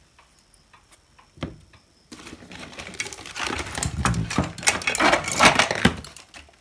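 Quick run of sharp clicks and rattles from objects being handled on a workbench, starting about two seconds in after a single click.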